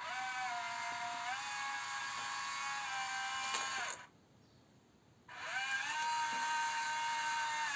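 Small electric gear motor of an RC crane truck's crane whining under power in two runs: one of about four seconds, its pitch stepping up slightly about a second in, then a short pause and a second run that rises in pitch as it starts.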